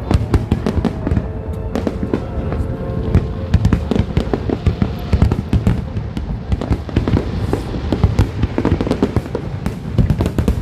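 Fireworks finale barrage: a rapid, unbroken run of bangs and crackling reports, many each second, with music playing underneath.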